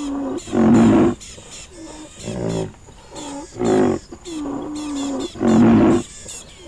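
A large animal's deep bellowing calls, four loud ones a second or two apart, with softer moaning tones between them.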